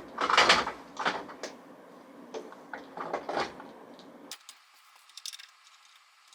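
A handful of scrapes and knocks, like something being slid and bumped, the loudest about half a second in. About four seconds in they give way abruptly to faint hiss with a few light ticks.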